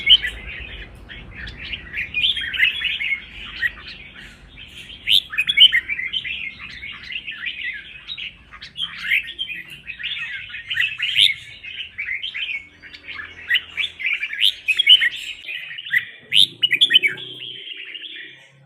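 Red-whiskered bulbul song: a dense, unbroken stream of quick chirps and whistled phrases, the bird's competitive 'fighting' song. It fades out just before the end.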